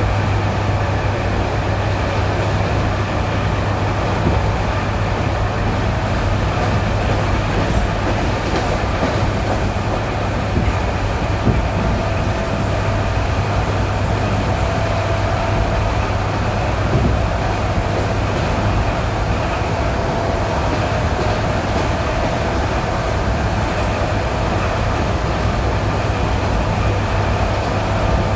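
ED9E electric multiple unit running at speed on jointed track, heard from inside the carriage: a steady rumble and wheel noise over a constant low hum, with a few sharp knocks from the wheels striking rail joints.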